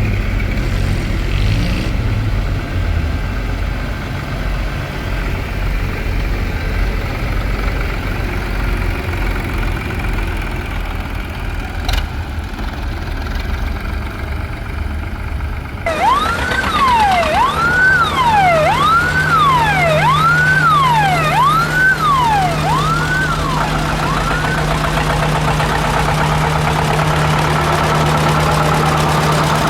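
Engines running with a low rumble. Then, after an abrupt change about halfway through, a siren wails in about eight quick rising-and-falling sweeps over a steady engine hum, stopping a few seconds before the end.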